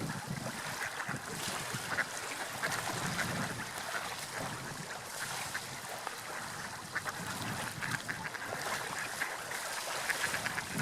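Seagulls calling repeatedly over the steady wash of sea waves and wind.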